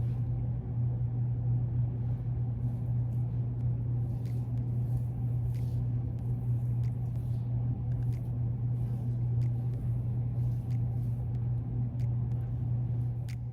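A steady low machine hum with a rumbling edge, running evenly, with a few faint clicks over it.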